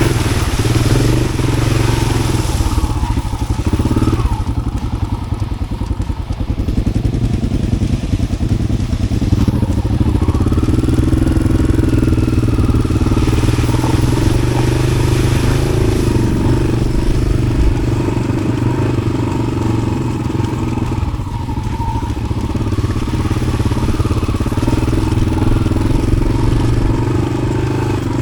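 Yamaha XT600 single-cylinder four-stroke engine running through an Arrow aftermarket exhaust while the bike is ridden off-road, its note rising and falling with the throttle.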